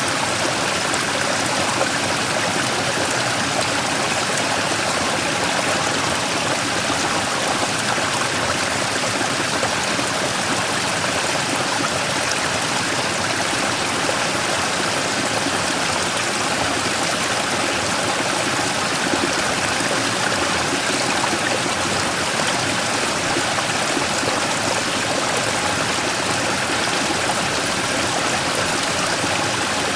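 Mountain stream running steadily, water rushing and splashing over a large rock in a small waterfall.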